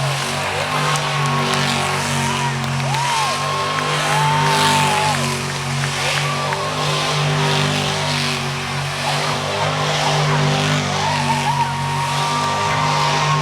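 Monster truck engine running hard and steady, with some higher squealing glides over it.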